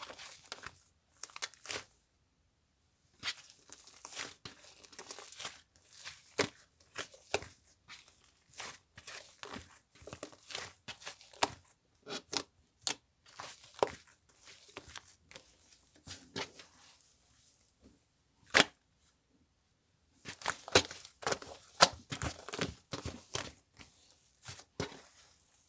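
Irregular crinkling and crackling: many sharp clicks in uneven clusters, with a near-silent pause about three-quarters of the way through, then a busier run of crackles.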